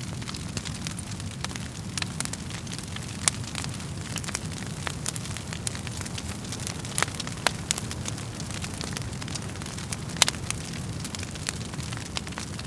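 Wood fire crackling in a fireplace: a steady low rumble of flames with frequent sharp pops and crackles, a few of them louder snaps.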